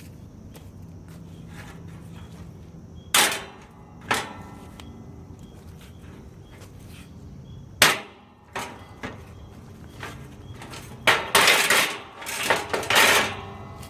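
Metal knocks and clanks from work on the metal bed-frame tailgate: three single sharp strikes in the first half or so, then a run of loud rattling clanks near the end.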